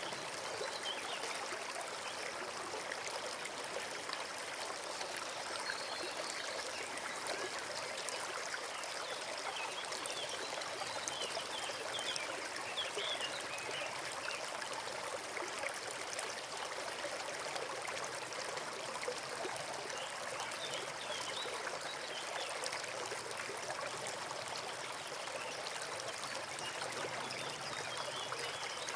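Forest creek running steadily, a constant rushing trickle of water.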